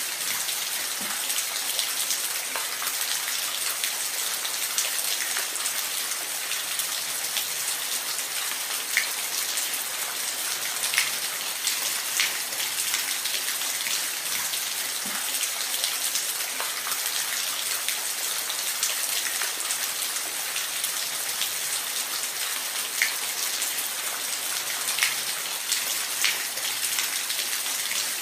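Waterfall ambience: a steady, even hiss of falling water, with scattered sharper splashes and drips standing out now and then.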